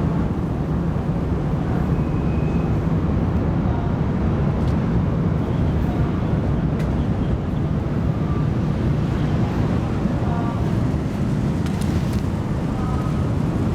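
Steady low rumble of the car ferry Oosado Maru's engines, with wind buffeting the microphone; a few faint distant voices come in over the second half.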